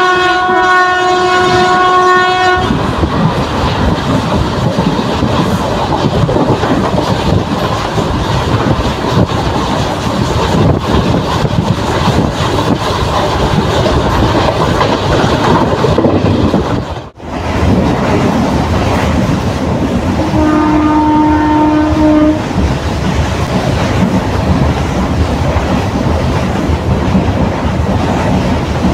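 Running sound of an ICF passenger coach at speed, heard at an open window: a steady rumble with the wheels clattering over the rails. A train horn is sounding at the start and stops about two and a half seconds in, and a second, lower horn sounds for about two seconds a little past two-thirds of the way through. There is a brief drop-out in the sound just before the second horn.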